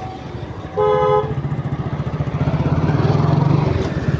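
Vehicle engine running with a steady low pulse, a short horn beep about a second in, and the engine growing louder around three seconds in.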